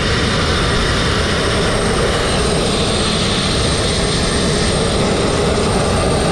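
Abrasive blasting nozzle running continuously: a steady, loud hiss of compressed air driving fine crushed-glass media against a painted surface, with a thin high whine held throughout.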